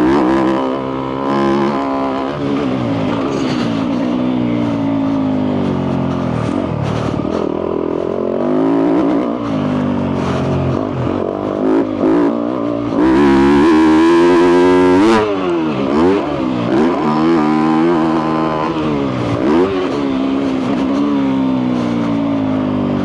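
2022 Yamaha YZ250F's 250 cc four-stroke single-cylinder engine, breathing through a full FMF exhaust, revving up and down while being ridden, its pitch repeatedly climbing and dropping with throttle and gear changes. About halfway through, a loud rushing hiss covers it for roughly two seconds.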